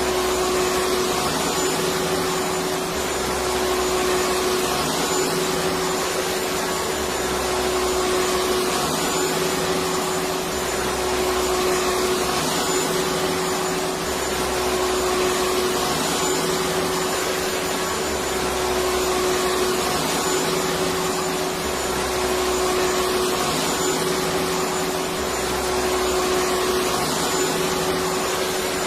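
Electric vacuum cleaner running steadily: a constant rush of air with a steady whine, and a low hum that swells and fades every three to four seconds.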